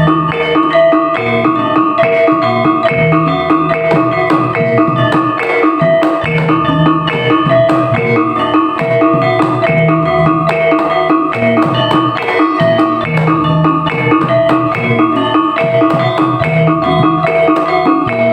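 Topeng Ireng dance music: drums and tuned metal percussion playing a steady, repeating pattern.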